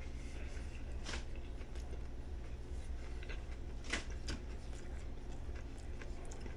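A person chewing a mouthful of dry sub roll bread, with soft crunches and mouth clicks, the loudest about a second in and about four seconds in, over a steady low hum.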